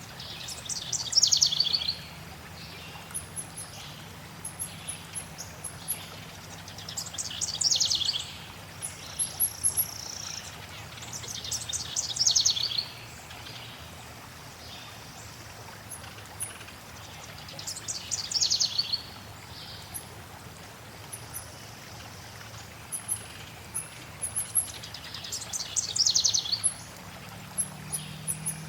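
A songbird repeats a short, fast trill that falls in pitch, five times, about every five to six seconds, while other birds give faint high chips. Steady flowing water runs underneath.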